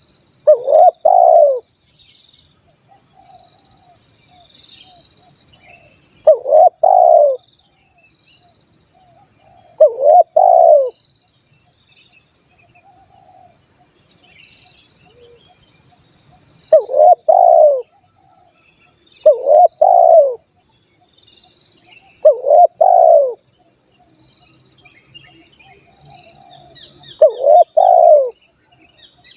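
Spotted dove (tekukur) cooing: seven short two-note coo phrases, loud and repeated every few seconds, as played for luring wild doves. A steady high insect drone runs underneath.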